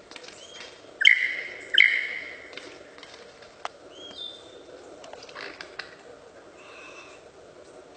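Bird calls: two loud, sharp calls about a second apart near the start, followed by softer scattered chirps and short upward-gliding notes.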